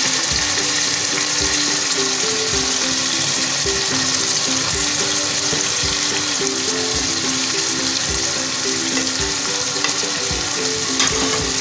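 Chopped onion, tomato and green chilli frying in oil in a steel kadhai: a steady sizzle. A simple background tune with a soft regular beat plays along.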